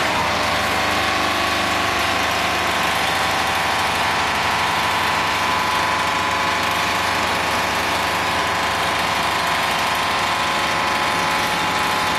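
Straight-seam welding machine for solar water heater tanks running: a steady, even mechanical drone with a constant hum.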